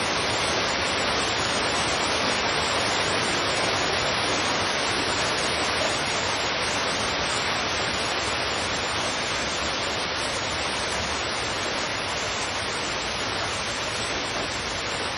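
Heavy rain falling steadily, a dense even hiss with no separate drops or other events standing out.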